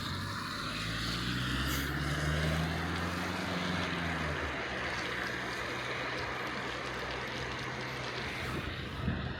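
A motor vehicle's engine hum rises and falls as it passes, dying away about four and a half seconds in, over a steady rushing hiss.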